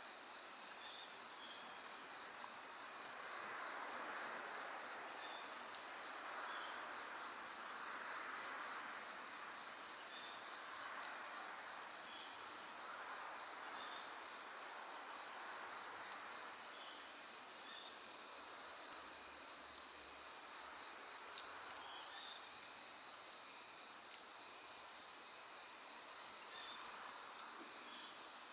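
Crickets chirping in a steady, high-pitched night chorus, with a couple of faint sharp clicks about two-thirds of the way through.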